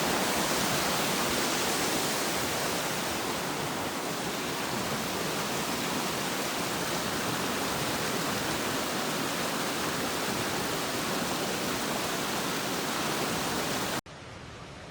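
Steady rush of flowing water, even and unbroken. Near the end it cuts off abruptly to a much quieter steady hiss.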